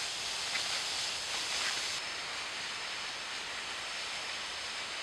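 Steady outdoor rainforest ambience: an even hiss with a faint high steady tone, dropping slightly about two seconds in.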